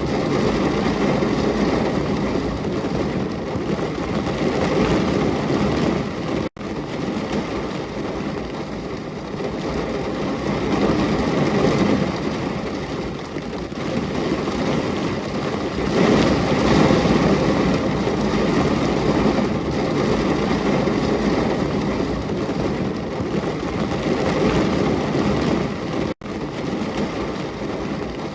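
Steady heavy rain, a dense, even rush that cuts out for an instant twice: about six seconds in and near the end.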